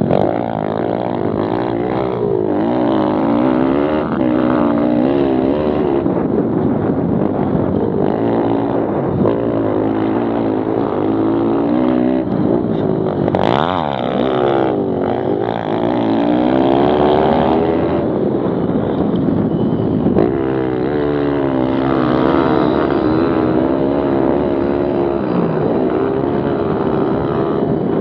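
Several Kawasaki KLX110 pit bikes racing, their small single-cylinder four-stroke engines revving up and down through the gears all at once. About halfway through, one bike passes close with a quick rise and fall in pitch.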